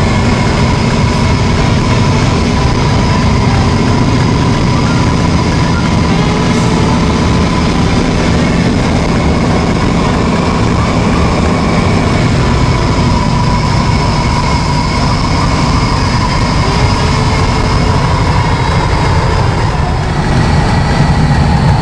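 Boeing 40C biplane's Pratt & Whitney Wasp radial engine running steadily with a deep rumble and a steady whine on top, getting a little louder near the end.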